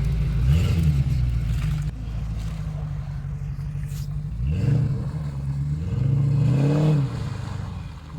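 Land Rover Discovery 2's engine revving up and easing off several times while crawling over a rough off-road trail, with the pitch climbing around half a second in, again after about four and a half seconds, and falling away shortly before the end.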